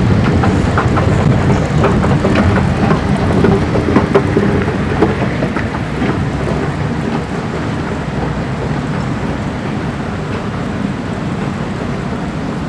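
Singapore MRT electric train running on its rails: a loud, steady rumble with rapid clattering of wheels over the track in the first half, which eases into a steadier, slightly quieter rumble.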